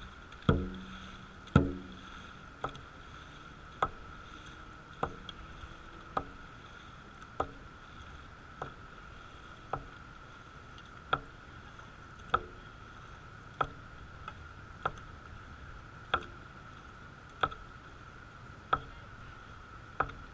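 Dragon boat crew paddling at a steady stroke rate: a sharp knock on each stroke, about one every 1.2 seconds, the first few heavier with a low booming ring. A steady high hum runs underneath.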